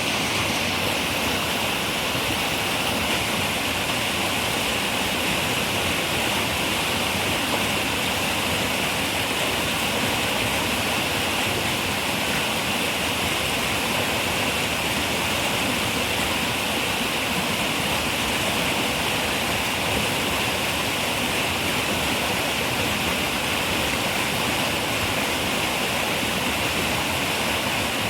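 River water rushing steadily over rocks, a constant, even hiss-like flow with no breaks.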